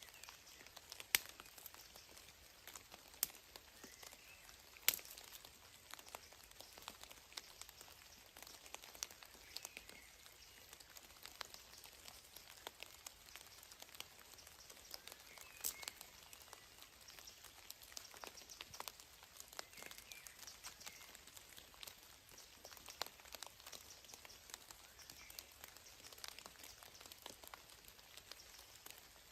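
Water drops tapping irregularly and sparsely, a few of them louder, over a faint steady hiss.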